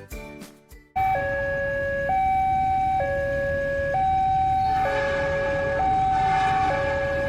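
Railway level-crossing warning alarm switching on abruptly about a second in. It sounds a steady two-tone hi-lo signal, each note held just under a second, warning that a train is approaching.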